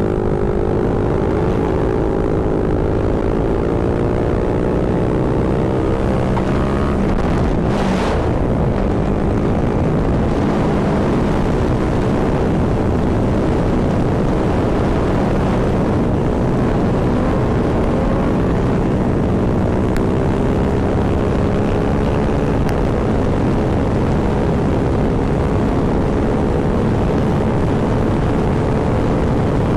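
Motorcycle engine running under way, its pitch drifting slowly up and down with the throttle, over a heavy rush of wind on the microphone, with one short sharp noise about eight seconds in.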